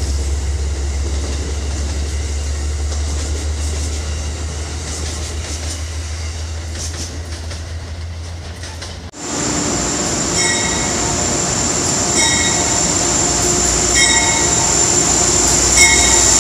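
A passing passenger train's rail rumble fades as the train moves away, then stops abruptly. After that, a GE Genesis locomotive moves along an underground station platform: a steady high-pitched squeal grows louder, with a ringing strike repeated about every two seconds.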